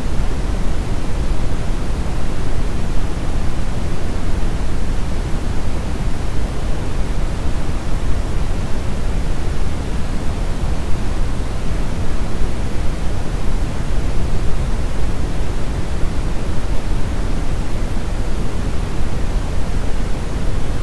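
Brown noise: a steady, deep rushing hiss, strongest in the bass and falling away toward the highs, with no change throughout.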